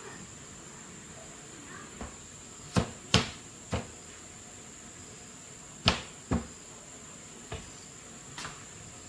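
Sharp clicks and knocks, about eight of them at uneven intervals, over a steady high-pitched tone.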